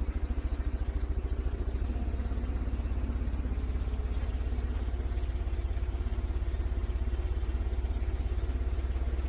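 A motor running steadily, a low drone with a fast, even pulsing.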